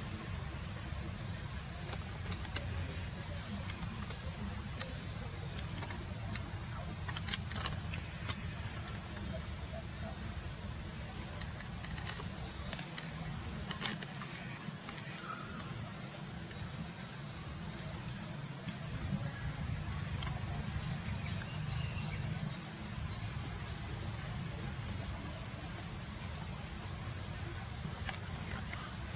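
An insect, cricket-like, chirping steadily in a high, rapid, evenly pulsed trill, over a low steady rumble with a few sharp clicks.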